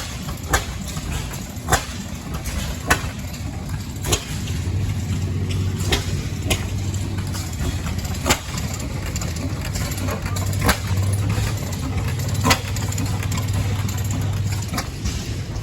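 Antique engines running at a show: a steady low engine hum with sharp exhaust pops every second or two at uneven intervals.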